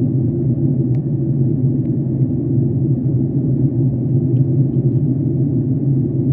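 Steady low drone of jet airliner cabin noise, engine and airflow together, with a few faint ticks.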